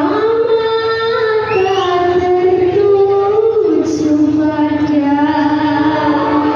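Student choir singing long held notes that glide from one pitch to the next.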